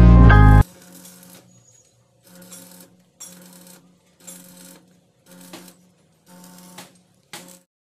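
A workshop machine or electric tool run in short bursts, about one a second, each with a steady hum. Background music cuts off suddenly just before the first burst.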